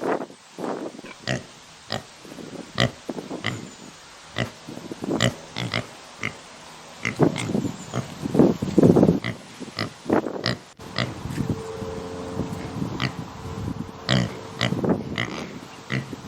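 Pig grunting: many short, irregular grunts with brief high squeaks among them, loudest around the middle.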